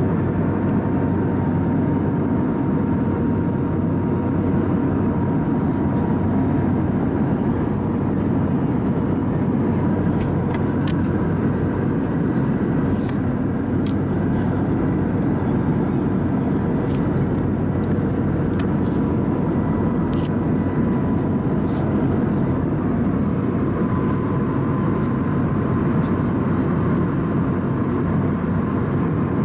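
Steady in-flight cabin drone of an Airbus A320neo: airflow and the CFM LEAP-1A engines make an even noise with a faint steady whine, and a few faint clicks come in the middle.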